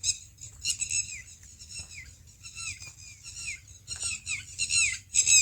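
Small birds chirping: short, high calls that drop in pitch, repeated in quick runs throughout and coming thicker near the end.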